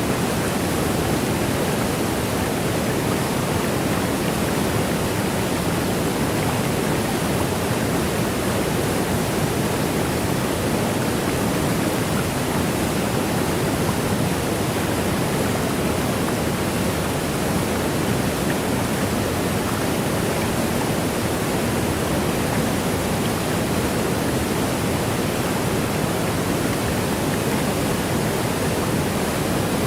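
Waterfall rushing steadily: an even, unbroken roar of falling water that does not change.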